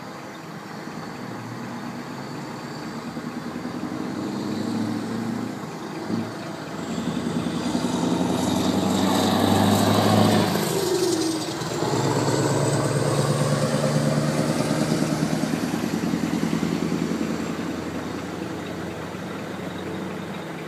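Scania R500 V8 truck engine pulling hard. The engine note builds to its loudest about halfway through and its pitch falls as it passes. It drops briefly, holds strong again, then fades away over the last few seconds.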